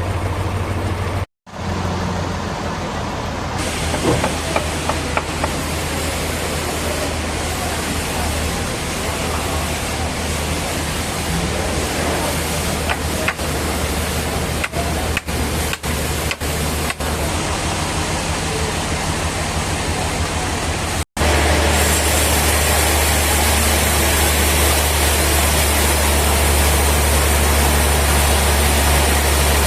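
Sawmill machinery running steadily with a low hum under a wide noise. The sound drops out abruptly twice, about a second in and about two-thirds through. After the second break the low hum is louder.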